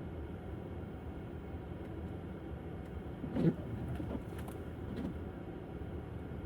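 Steady tyre and road noise from an electric Tesla Model S driving on snow-covered roads, with no engine sound. A single thud about three and a half seconds in, and a couple of fainter knocks shortly after.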